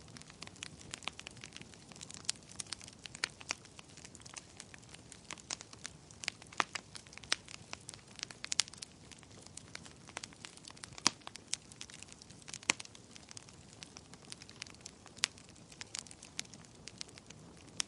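Wood fire in a fireplace crackling: irregular sharp pops and snaps, several a second at times, over a faint steady hiss.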